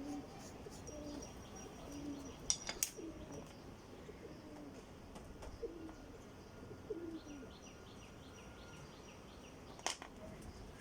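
A dove cooing: short, low coos repeating roughly once a second, with faint chirping from other birds. A few sharp clicks stand out, two together about two and a half seconds in and one near the end.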